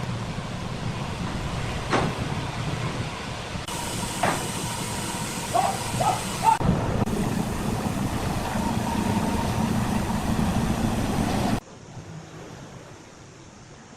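Heavy machinery running with a steady rumble, a couple of sharp metallic knocks and brief squeals, broken by abrupt cuts; after a final cut it drops to a quieter hum.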